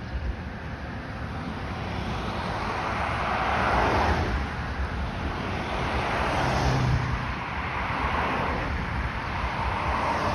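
Road traffic: vehicles passing with tyre and engine noise, swelling about four seconds in and again around seven seconds.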